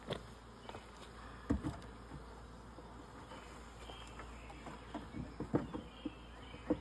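Honeybees buzzing around a freshly hived swarm, with a few scattered knocks and taps.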